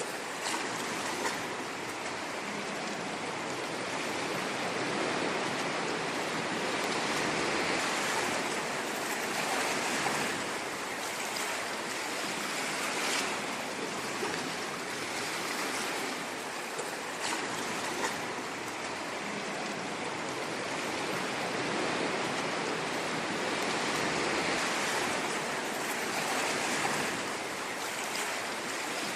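Ocean waves washing on a shore in a continuous rushing hiss, swelling and easing gently every several seconds.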